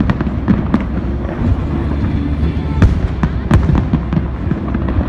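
Fireworks display going off: a dense, irregular run of sharp bangs and crackles over a continuous low rumble, with two louder reports around three seconds in.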